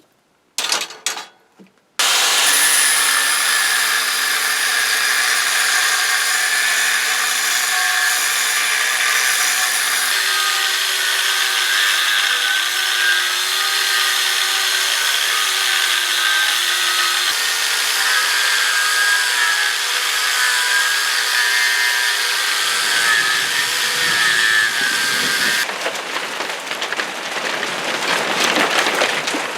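Power tool cutting into the steel of an old vise handle. After a couple of short sounds it starts about two seconds in and runs steadily, turning rougher for the last few seconds.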